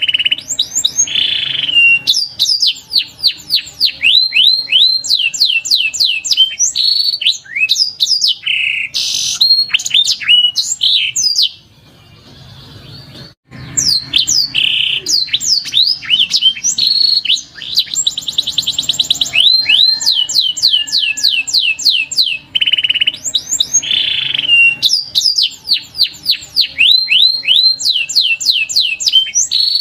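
Domestic canary singing: a long song of rapid, repeated descending whistled notes and fast trills, with a short break about twelve seconds in before the song resumes.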